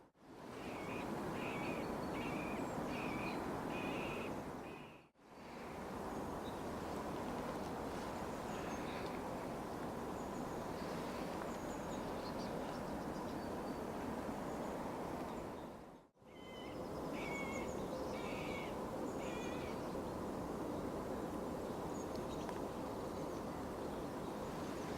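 Middle spotted woodpecker singing: a slow run of about six evenly spaced calls, roughly one every 0.7 s, given twice, once at the start and again past the middle, over a steady background hiss of noise.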